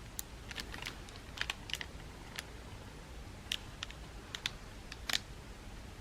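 A string of light, sharp clicks and taps at an irregular pace, about fifteen in all, the loudest a little after five seconds in.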